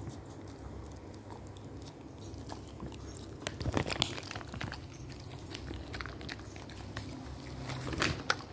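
A dog crunching and chewing a hard dog treat, with sharp crunches that come thickest about four seconds in and again near the end.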